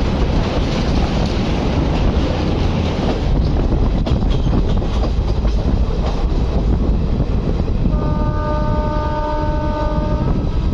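Passenger train running at speed, heard from a coach window: a steady rumble of wheels on rail and rushing air. Near the end the locomotive horn sounds one steady multi-tone blast lasting about two seconds.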